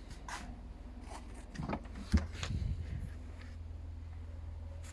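Handling noises of kitchenware: a few light clicks and rattles, with one sharp knock about two seconds in, over a low steady hum.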